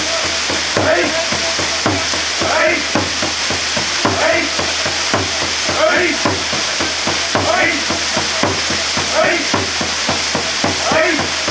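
Waterfall pouring steadily, a dense rushing water noise at a fair flow. A faint rhythmic sound rises and falls through it a little more than once a second.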